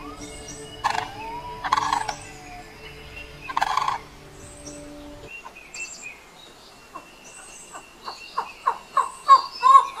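Birds calling: three loud, harsh calls in the first few seconds, then, after a cut, a run of short arched whistled notes that comes faster and louder toward the end.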